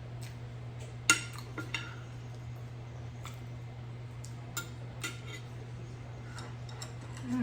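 Eating utensil clinking and scraping against a bowl in a few sharp clinks, the loudest about a second in, over a steady low hum.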